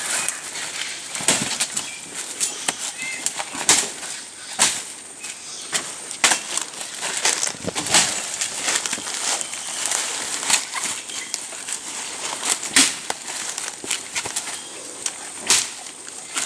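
Irregular crackling and rustling, with sharp snaps or knocks every second or two, over a thin steady high-pitched whine.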